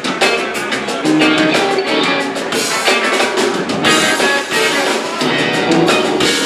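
Live rock band playing: guitar lines over a drum kit with steady cymbal hits.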